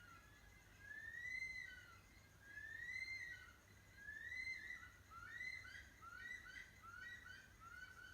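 Several bush stone-curlews calling: long, rising, drawn-out wails about every second and a half. From about five seconds in they give way to shorter notes that come quicker and quicker.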